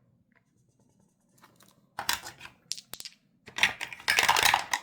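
Dice rattling and clattering on a hard surface, with a few scattered clicks followed by a longer, louder burst of clatter near the end.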